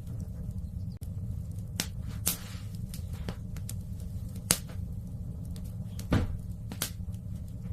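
Wood fire burning in a fireplace, with a steady low rumble and sharp crackling pops, five loud ones, one followed by a brief hiss.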